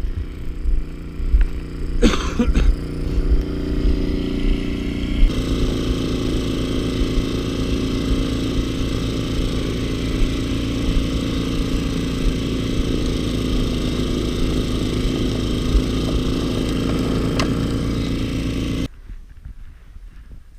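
Snowblower engine running steadily, its sound shifting slightly about five seconds in. The engine sound cuts off suddenly near the end.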